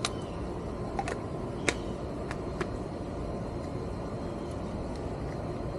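Steady low running noise of an air-conditioner condensing unit, with about six light clicks and taps in the first three seconds, the loudest a little under two seconds in.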